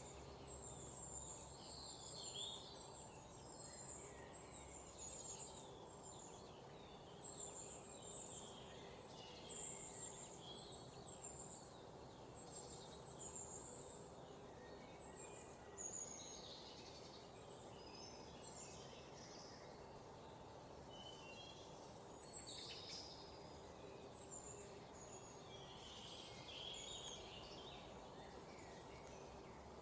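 Several birds chirping and trilling faintly, many short high calls scattered through, over a steady low outdoor hiss.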